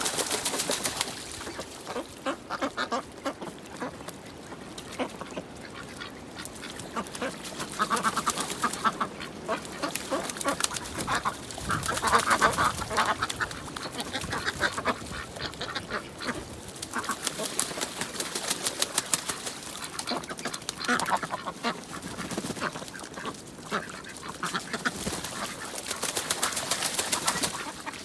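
A group of ducks quacking in rapid, overlapping calls, swelling into louder bouts several times.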